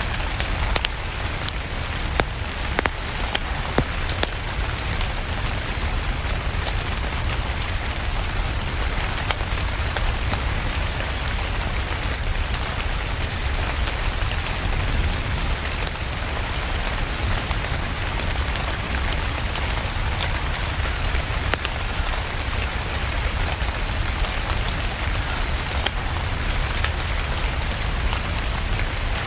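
Steady rain with a crackling wood fire: an even hiss of rainfall dotted with scattered sharp pops and clicks, over a low rumble.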